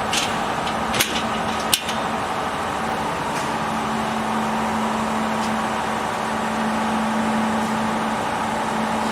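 Laser welding machine running with a steady hum, one low tone held throughout, with three sharp clicks in the first two seconds.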